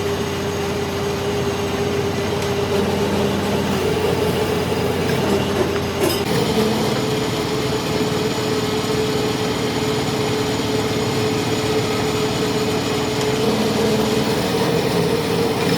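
A workshop machine running steadily with a constant hum over a noisy wash. There is a brief click about six seconds in, after which the hum sits slightly higher.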